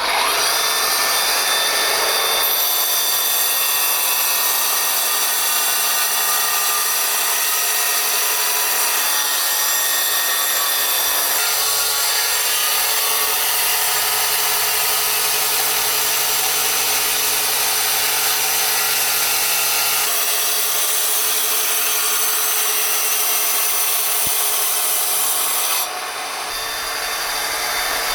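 A power tool working stone: a continuous harsh abrasive noise with a steady high whine, easing a little near the end.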